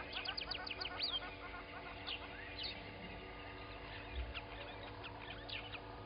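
Morning chorus of many wild birds calling at once, with a quick run of high, sharp notes in the first second and scattered chirps and trills throughout.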